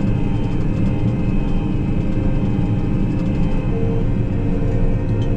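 Combine harvester running steadily while shelling corn: a constant engine and machinery drone with steady hum tones, and a higher hum that comes and goes in the second half.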